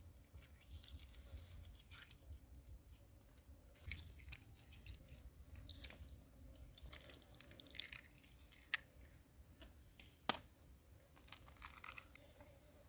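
A person chewing and eating close to the microphone, with soft crunches and a few sharp clicks, the loudest about ten seconds in.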